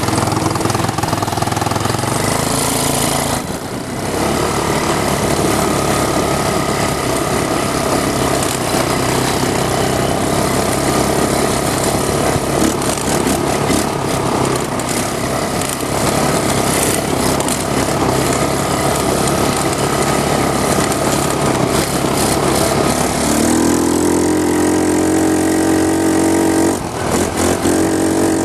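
150cc GY6 four-stroke single-cylinder engine of a mini monster truck running under throttle on the trail, easing off briefly a few seconds in, then revving up with a rising pitch near the end.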